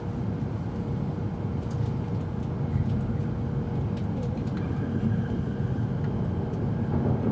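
Steady running noise of an E7 series Shinkansen, heard inside the passenger car: an even low rumble with a faint steady tone and a few light clicks.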